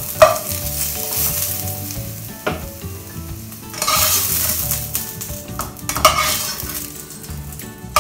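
Sliced onions sizzling in hot oil in a nonstick wok, stirred with a wooden spoon and then scooped out with a perforated metal skimmer once lightly browned. The sizzle swells in bursts about four and six seconds in, with a single sharp tap about two and a half seconds in.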